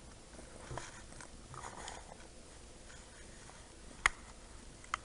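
Faint rustling and light pattering of a kitten moving about, with a sharp tap about four seconds in and a smaller one near the end.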